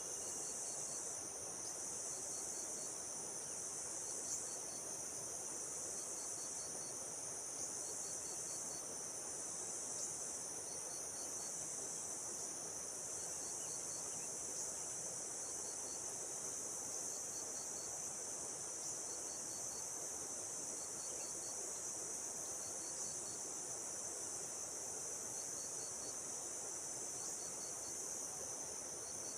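Outdoor insect chorus: a steady high-pitched trilling drone, with a short chirp of four or five quick pulses repeating about every second or so.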